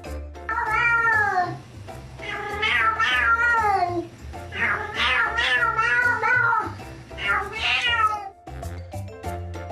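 Domestic cat meowing: four long, drawn-out meows, most sliding down in pitch at the end, over background music.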